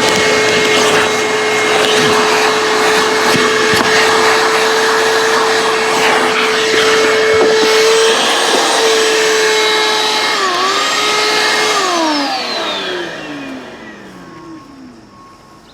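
Vacuum cleaner motor running with a steady whine. About twelve seconds in it is switched off, and the pitch falls as the motor spins down.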